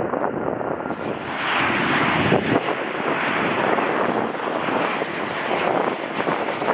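Boeing 737 jet engines running as the airliner passes, a steady dense noise that grows louder about a second and a half in, with wind buffeting the microphone.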